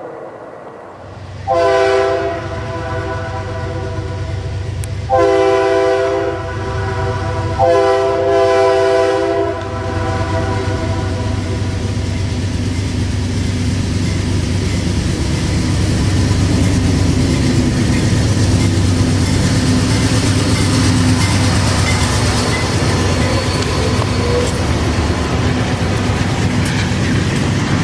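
A locomotive's multi-chime air horn sounds three blasts of a couple of seconds each. The train then passes with a steady rumble of engine and wheels on the rails.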